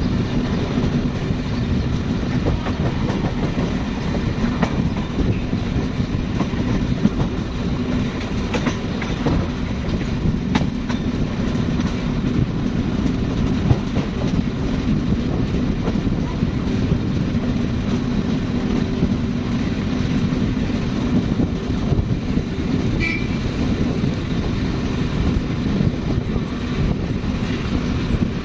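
Passenger train of Russian-built coaches running past close by: a steady, loud rumble of wheels on the rails with scattered sharp clicks, unbroken throughout.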